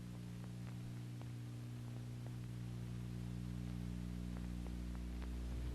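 Steady low electrical hum under hiss, with a few faint scattered clicks, typical of an old film soundtrack's background noise.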